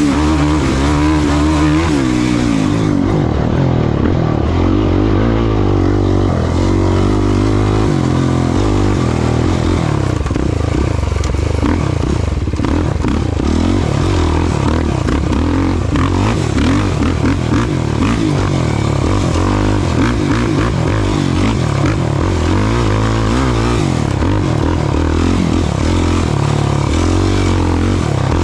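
ATV engine running hard in a cross-country race, its pitch rising and falling constantly with the throttle, with clattering and rattling throughout.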